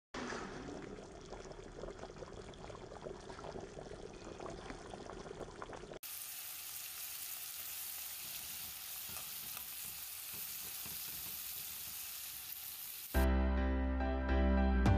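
A pan of curry bubbling with small crackles. After a sudden cut about six seconds in, onions, tomatoes, garlic and green chillies sizzle in oil with a steady hiss. Background music comes in near the end.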